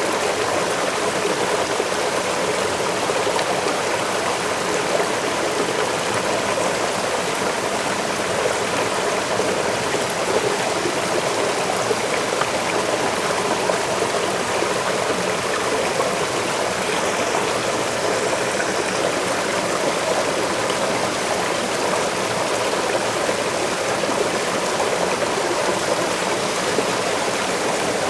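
Forest waterfall and stream rushing steadily, an even wash of falling and splashing water.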